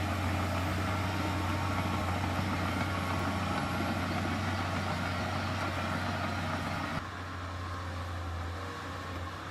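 Heavy diesel engine of earthmoving machinery running steadily with a deep, even hum. The level drops suddenly about seven seconds in and the sound carries on quieter.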